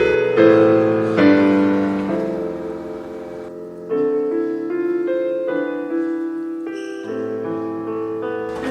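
Piano playing slow, held chords as background music, a new chord struck every second or two.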